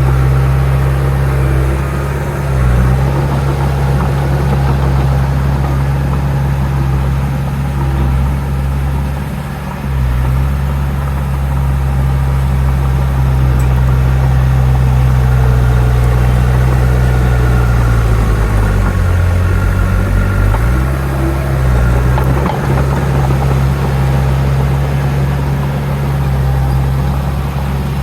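Heavy diesel engine of earthmoving machinery running steadily, its low note dipping and recovering a few times, most markedly for a few seconds about two-thirds of the way through.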